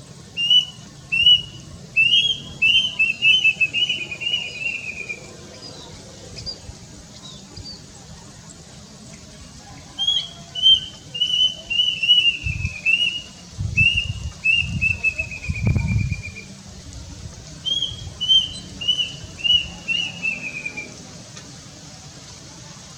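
Plaintive cuckoo singing its shrill, plaintive whistled song: three bouts, each opening with a few spaced notes that speed up into a quick run falling in pitch.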